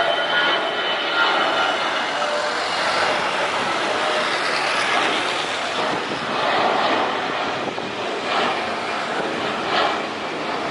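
Airliner engines running loud as a plane passes close by: a steady rushing noise with a faint whine near the start.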